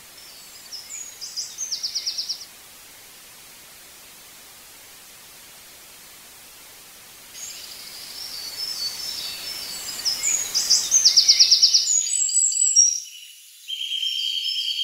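Bird-like chirps and a quick trill over a steady hiss, in two spells, the second longer and louder. Near the end the chirping stops and a steady high-pitched tone sets in.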